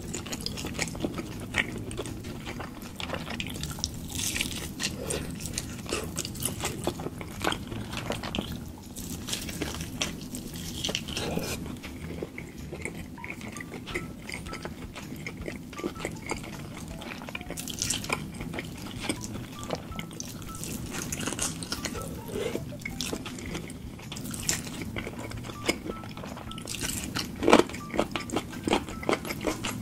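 Close-miked eating: chewing and biting with many short, wet clicks throughout, and a few louder ones near the end.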